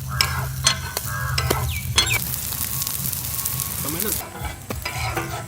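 Chicken curry sizzling in a hot pan while a utensil stirs it, with sharp clicks and knocks of the utensil against the pan. The sizzle is strongest in the middle and dies down about four seconds in.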